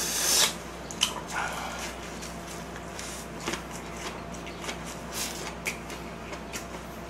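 A person chewing a mouthful of food: wet, irregular crunches and smacks. A short hiss right at the start.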